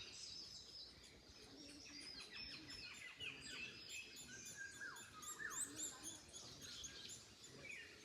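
Several birds chirping and singing at once, faint: many short, high chirps overlapping throughout, with a couple of lower falling whistles about five seconds in.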